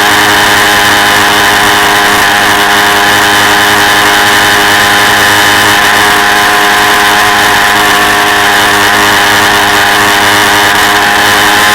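Quad bike engine running at a steady speed, heard from on board, its pitch holding nearly constant.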